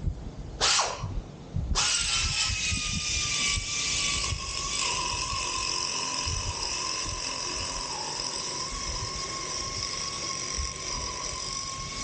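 A tool gives a short burst, then starts about two seconds in and runs steadily with a noisy hiss and a whining tone that sags a little lower before holding.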